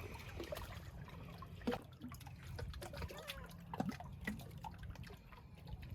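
Small lake waves lapping and gurgling against shoreline rocks, with scattered little plops and drips.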